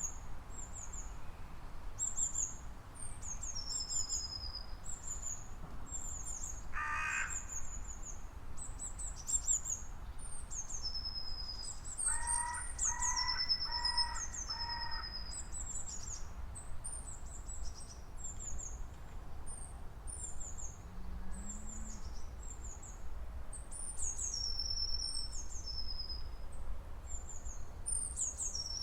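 Nature ambience of small birds chirping and trilling in quick high-pitched phrases throughout, over a steady low rumble. A lower, harsher call comes once about seven seconds in, and a run of four such calls follows near the middle.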